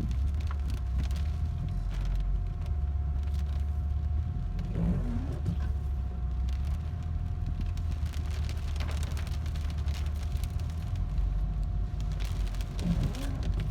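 Steady low rumble of a Volvo 940 Turbo wagon driving, heard from inside the cabin, with a faint steady whine. Scattered light ticks of rain and blown debris hit the body, and there are two brief swishing sweeps, about five and thirteen seconds in.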